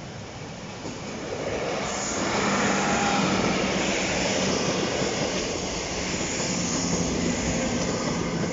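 Class 156 and Class 170 diesel multiple units coupled together passing close by, diesel engines running and wheels rolling over the rails. The sound builds over the first two seconds as the front of the train draws level, then stays loud as the carriages go past.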